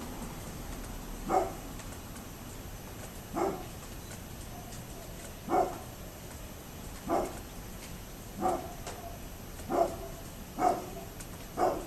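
A dog barking over and over, eight single barks about one to two seconds apart, coming a little faster near the end.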